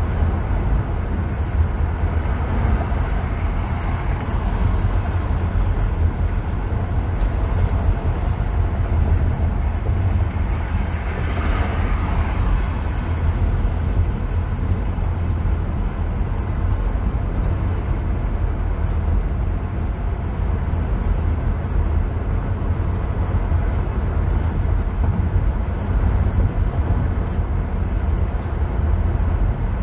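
Steady road noise of a car driving on a freeway: a deep, constant rumble with tyre hiss over it, the hiss swelling briefly about twelve seconds in.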